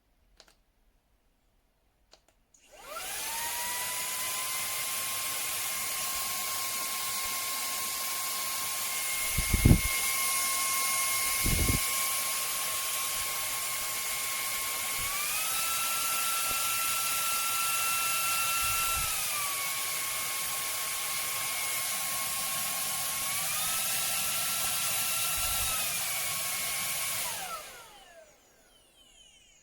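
A LEBENLANG cordless handheld vacuum cleaner's motor starts and whines up to speed, then runs steadily with a high whine and air rush. Its pitch steps up twice to a higher speed and drops back each time. It winds down and stops near the end. Two sharp thumps come about a third of the way in.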